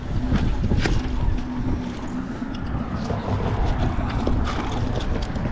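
Steady low outdoor rumble of wind on the microphone and distant traffic, with a few light clicks and knocks scattered through it.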